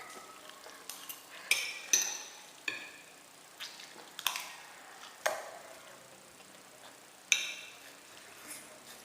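Scattered light clicks and taps, about eight of them at uneven intervals, some with a brief ringing tail; the sharpest comes about seven seconds in.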